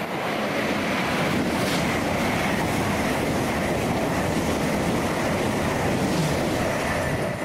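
A train passing at speed: a steady, loud rushing noise with no clear engine note.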